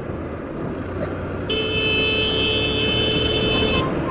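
A vehicle horn sounding one steady note for a little over two seconds, starting about a second and a half in, over constant engine and road noise.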